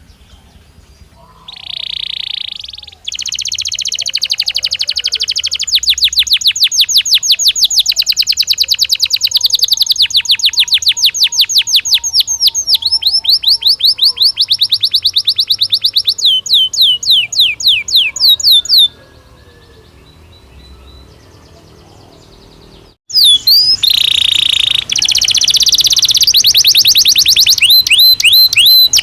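Belgian canary singing: long, loud runs of rapid repeated trill notes, slowing into separate falling notes before a pause of a few seconds, then fast trilling again near the end.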